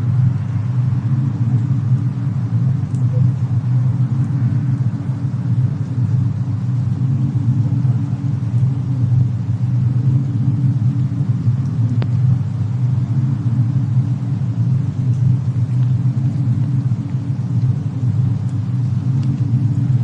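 Steady deep rumble of a fireplace-and-snowstorm ambience mix, with an occasional faint crackle, one about halfway through.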